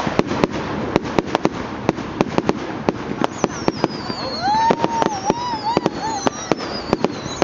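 Fireworks display: a rapid, constant string of sharp crackling bangs, with whistling fireworks starting about three seconds in, their whistles sliding down in pitch.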